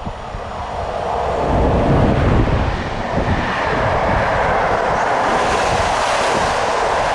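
Passenger train passing close by on the rails, its rumble and wheel noise swelling over the first two seconds and then holding steady.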